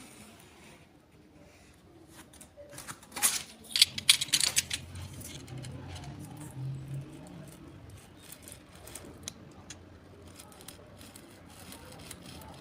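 A cluster of sharp clicks and scrapes, like metal being handled, about three to five seconds in, with a faint low hum under and after them.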